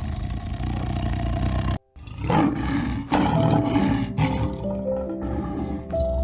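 An animal calling over background music; the sound drops out briefly about two seconds in, and a new clip follows with repeated loud calls under held music notes.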